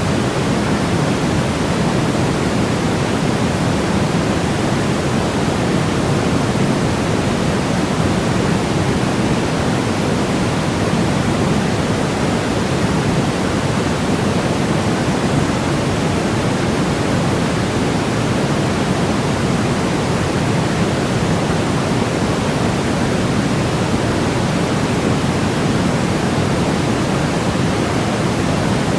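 Steady, unbroken white noise for baby sleep, a rushing hiss weighted toward the low end and thinning in the treble, with no change in level throughout.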